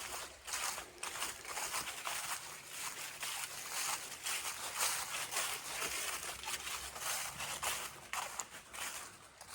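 A hiker's footsteps crunching on a dry trail, step after step, with no break.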